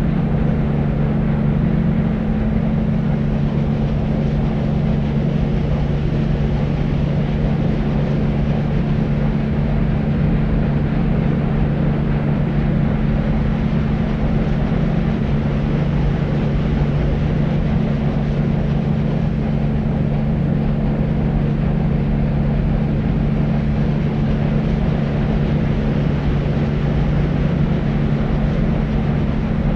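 Deep white noise for soothing babies: a steady, unchanging low rumbling hiss with a constant low hum under it.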